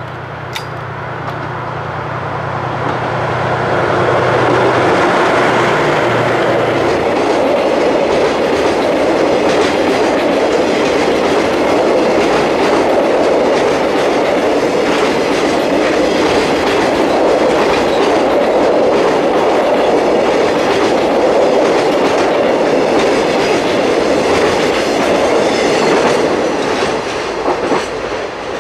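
Freight train passing close by: the DF200 diesel-electric locomotive's engine hum goes by in the first several seconds, then the 14 container flatcars roll past with a steady wheel rumble and rapid clickety-clack over the rail joints, easing off near the end.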